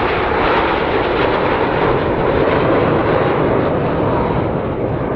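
BAE Hawk jets flying an aerobatic formation roll, their turbofan engines making a steady rushing jet roar that eases slightly near the end.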